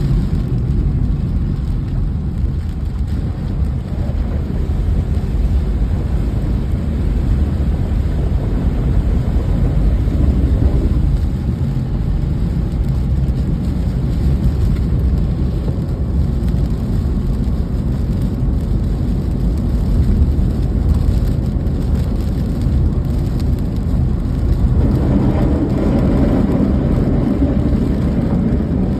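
Steady rain with a continuous low rumble, swelling louder near the end.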